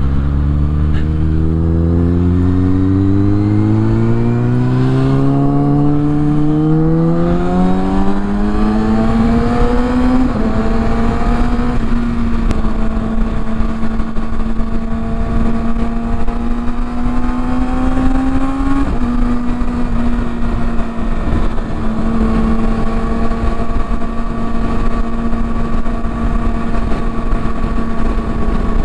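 Kawasaki ZX-6R inline-four with a Yoshimura exhaust pulling away from low revs, its pitch climbing smoothly for about ten seconds, then holding steady at cruise with brief dips about two-thirds of the way in. Wind rumbles on the microphone throughout.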